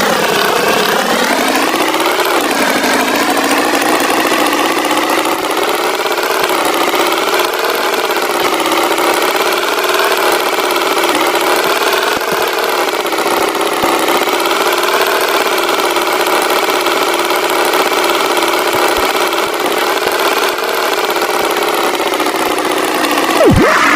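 Tractor engine sound effect running steadily, its pitch rising over the first two seconds as it revs up, then holding with a slight waver.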